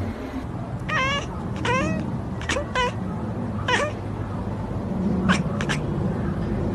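A pet animal's short, high-pitched cries, about five in quick succession, each bending up and down in pitch, followed by a few fainter short squeaks.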